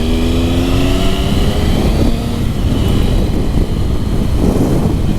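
Motorcycle engine pulling under way, its pitch rising slowly as it accelerates, with heavy wind rush on the microphone.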